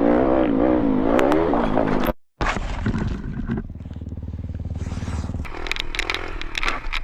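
Dirt bike engine at high revs, its pitch wavering up and down, cut off abruptly about two seconds in. After a brief gap, a dirt bike engine runs at low revs with a steady low chug, along with scraping and clattering.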